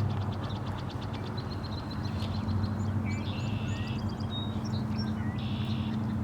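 Small birds chirping and calling: a rapid run of ticking notes in the first second or so, then short rising and falling chirps and a few buzzy calls. A steady low hum lies underneath.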